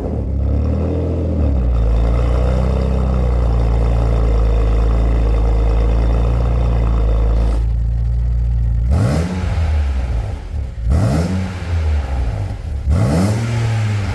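BMW X5 E53 petrol engine heard through a custom electronic valved exhaust with a mid-pipe resonator and dual tips, idling steadily, then revved in three quick blips about two seconds apart in the second half.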